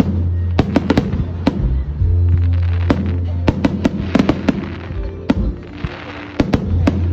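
Fireworks going off: a rapid, irregular run of sharp bangs and crackling bursts, with music and a steady low bass playing underneath.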